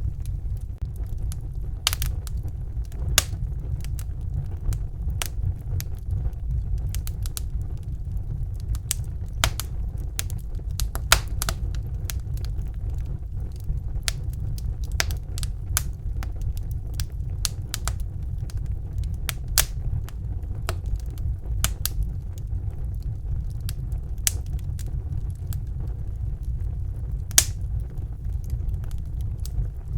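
Wood fire in a fireplace crackling, with sharp pops at irregular intervals over a steady low rumble.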